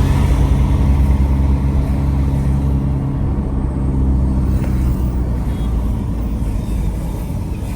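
A vehicle engine running steadily with a deep, even hum; the hum thins out after about five seconds.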